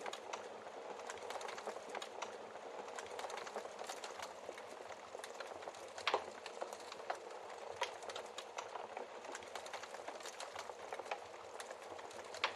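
Wood fire in a fireplace crackling, a steady hiss of small crackles with scattered sharp pops of burning logs, one louder pop about halfway through.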